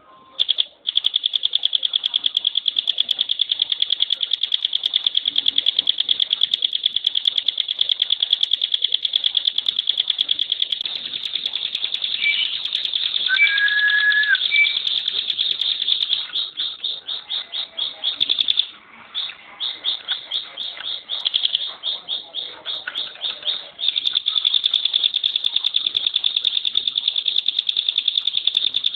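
Bar-winged prinia (ciblek gunung/pinus) singing its long, rapid-fire rattling trill, the dense 'tembakan' song prized in songbird contests. Around the middle the trill breaks into separate, slower notes with a brief pause, then runs on dense again.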